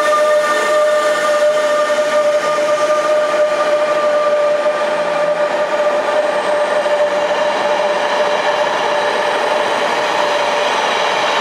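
Electric locomotive-hauled passenger train pulling out of the platform. A steady whine fades out about nine seconds in, while the rolling noise of the coaches going past grows.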